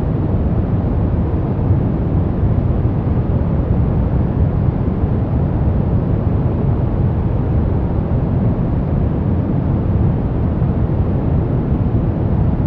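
Continuous relaxation noise track sold as white noise: an even, unbroken rush with no rhythm or events, its weight in the low range, so it sounds deep and rumbling rather than hissy.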